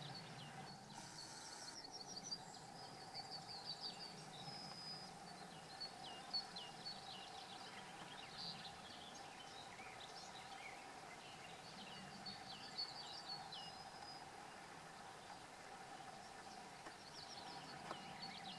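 Faint birdsong of short, high chirps and down-slurred notes, repeating irregularly over a steady low hum.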